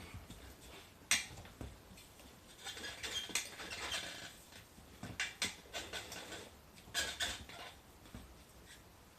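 Metal tyre levers clinking and scraping against a motorcycle wheel rim as an 18-inch motocross tyre is worked onto it by hand: sharp clicks, a stretch of rubbing scrape, then more clicks in quick clusters.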